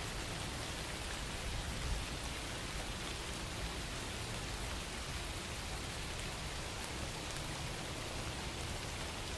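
Steady rain falling on a surface: an even, continuous patter of raindrops.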